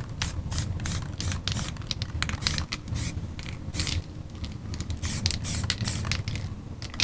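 Aerosol spray-paint can hissing in many short, irregular bursts: quick light misting taps laying down a soft frosted haze.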